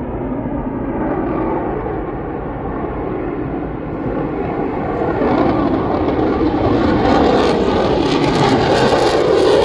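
Lockheed Martin F-35 fighter jet taking off, its single jet engine a steady rushing roar that grows louder and brighter through the second half.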